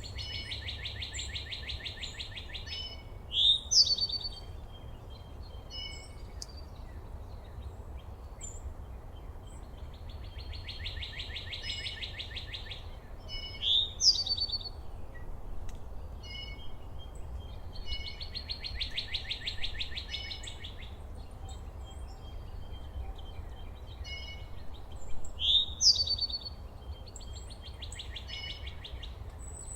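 Songbirds singing: a fast, even trill of about two and a half seconds repeated four times, roughly every eight seconds. Each trill is followed by a few loud, sweeping whistled notes, with scattered short chips between, over a steady low rumble.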